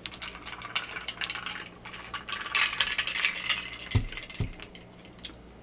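Eating utensils clicking and scraping against a dish of noodles, with a quick rattling stretch partway through and two dull thumps near the end.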